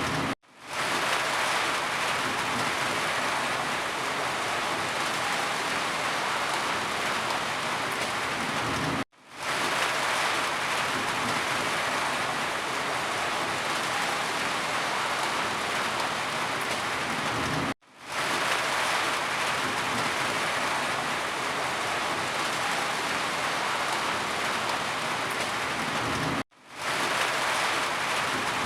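Steady heavy rainfall, a dense even hiss. It cuts out to near silence four times, about every nine seconds, and each time fades back up within about half a second.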